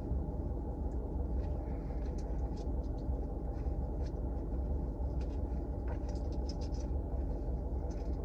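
Steady low rumble of a car with a constant hum and a few faint light ticks.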